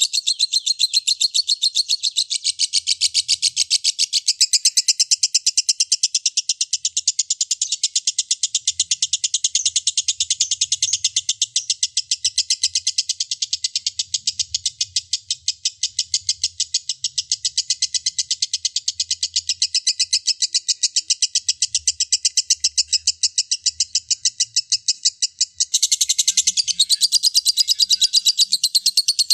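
Lovebird singing 'ngekek', the long unbroken chatter that bird-song hobbyists prize: a fast, even stream of shrill, rapidly repeated notes that runs without a pause, shifting in pattern near the end.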